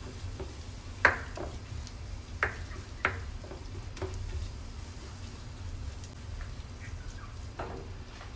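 Onion and masala paste sizzling gently in oil in a frying pan on low heat, cooking down until the oil separates from the paste. A kitchen utensil clicks sharply against the pan four times in the first half, over a steady low hum.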